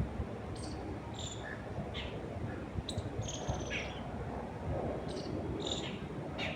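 Small birds chirping in short, high calls, one a slightly longer falling note about halfway, over a steady low rush of wind.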